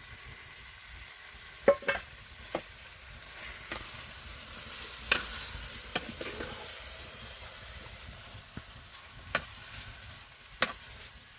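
Food sizzling as it fries in a pan, with a utensil clinking sharply against the pan every second or so while it is stirred.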